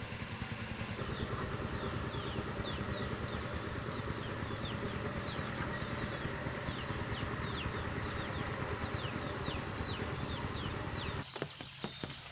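A small engine, likely a motorcycle, idling steadily, then cutting off suddenly near the end, after which scattered taps are heard. High, short falling chirps repeat about twice a second over the engine.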